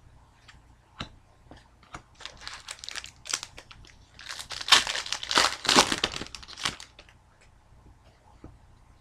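Foil trading-card pack wrapper crinkling and tearing as it is handled and opened, with a few light clicks first and the loudest crinkling in a burst of about three seconds in the middle.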